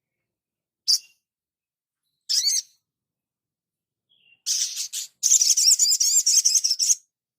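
High-pitched songbird calls: a single short chirp about a second in, a brief warbled call a little later, then a fast, rapid twittering phrase lasting about two and a half seconds near the end.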